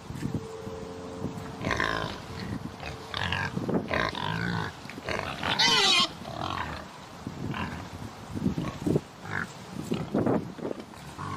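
Pigs grunting and squealing in short, irregular calls, with one louder, higher squeal about halfway through.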